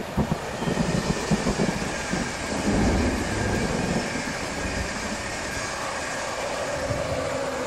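Passenger train running past on the rails: a steady rumble and rail noise.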